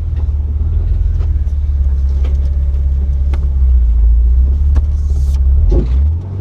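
Jeep's engine running at a low, steady rumble while crawling over rock, with a few faint knocks and clicks and a brief hiss about five seconds in.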